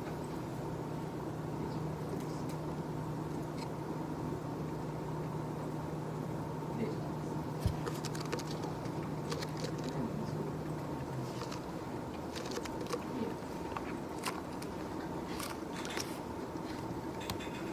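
Steady office background hum with scattered small clicks and taps from objects handled at a desk, more frequent in the second half; the low part of the hum stops partway through.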